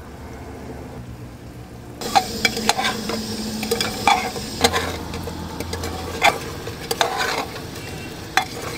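Mutton and masala frying and sizzling in a pressure cooker pot while a steel ladle stirs them, scraping and clicking against the metal. The sizzling and stirring start about two seconds in, after a quieter low hum.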